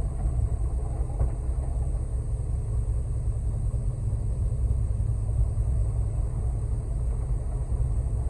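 Concrete mixer truck's diesel engine running steadily at low revs, a constant low rumble.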